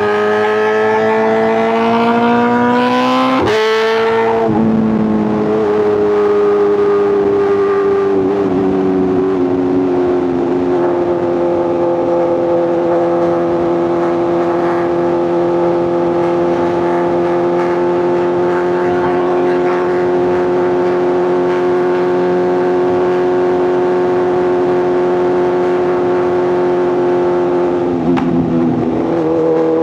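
Superbike inline-four engine and exhaust accelerating, the revs rising for about three seconds before an upshift drops them sharply. It then pulls gently and settles into a steady cruising drone at constant revs for most of the rest, with a brief dip in revs near the end.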